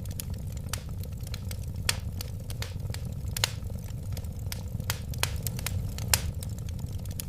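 Wood fire burning, with a steady low rumble of the flames and irregular crackling; a few sharper, louder pops stand out about two, three and a half, and six seconds in.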